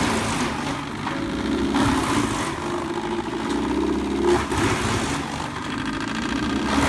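Wood chipper's engine running steadily, with several louder bursts of noise as wood goes through the chipper.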